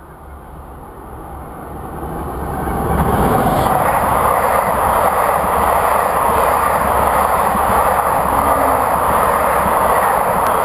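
Passenger train passing on the line: a steady rush of wheel and rail noise that swells over the first few seconds, holds loud, and begins to fade near the end.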